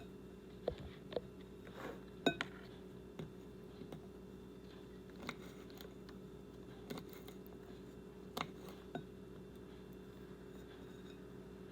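Irregular clicks and knocks of asparagus being cut up into small pieces, over a steady low hum.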